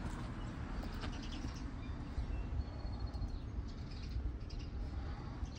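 Small birds chirping in the background, short high calls scattered through, with one brief whistled note about three seconds in, over a steady low rumble.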